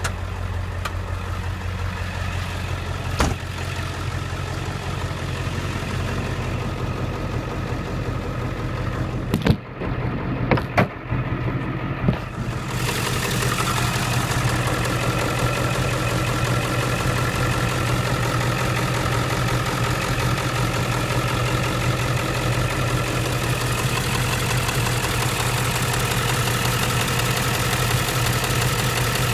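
A 2003 Ford Econoline's 7.3-litre Power Stroke V8 turbo diesel idling steadily. A few sharp clunks come around ten to twelve seconds in, after which the idle sounds louder and fuller.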